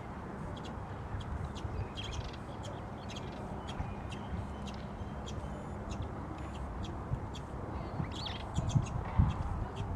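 Birds feeding on paving: many short, sharp high chirps and ticks scattered throughout over a steady low rumble, with a few louder low thumps near the end.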